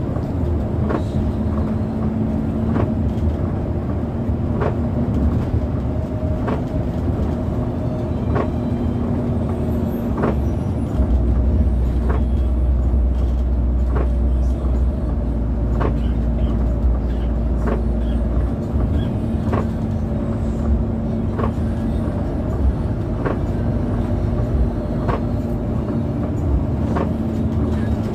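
Intercity bus running, heard from inside the passenger cabin: a steady engine and road hum with a sharp click about once a second. A deeper rumble swells for several seconds in the middle.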